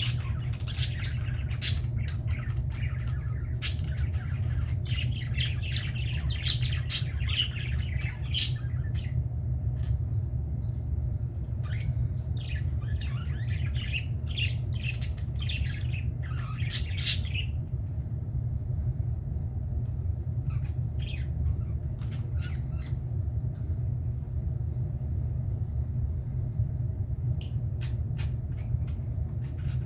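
Budgerigars chirping and squawking in quick, short calls, busiest in the first half and sparser near the end, over a steady low hum.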